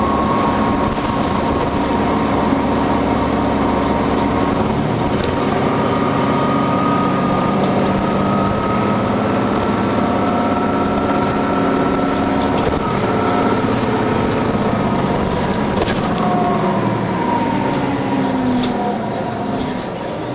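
Nova Bus TL-40102A low-floor city bus running under way. The whine of its engine and drivetrain rises in pitch as it accelerates, then falls near the end as it slows.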